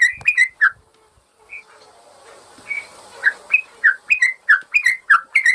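Yellow-vented bulbul (trucukan) song: a rapid series of short, loud notes, each sliding down in pitch, about three a second. They break off for a couple of seconds after the first second, then start again.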